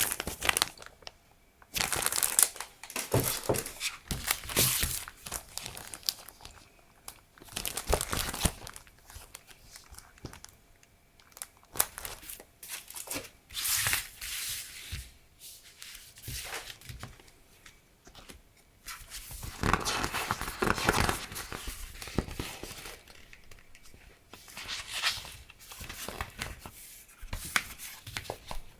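Plastic packaging and paper being handled and unwrapped: crinkling and rustling in irregular bursts, with quieter gaps between them.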